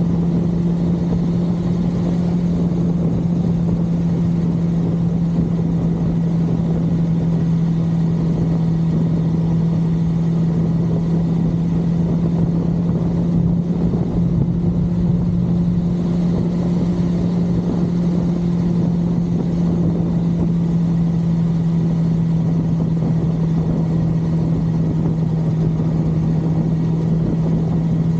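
1982 Suzuki GS550L's air-cooled inline-four engine running at a steady cruising speed, its pitch holding constant, under a dense rush of road noise.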